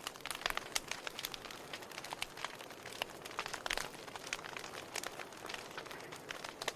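Wood fire burning, with irregular sharp crackles and pops of the burning logs over a steady hiss.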